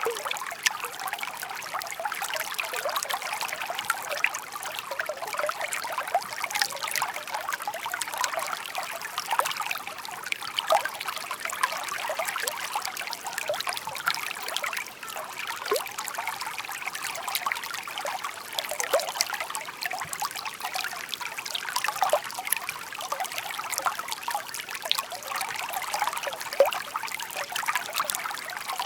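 Shallow babbling stream trickling steadily, a busy patter of small splashes with little low rumble.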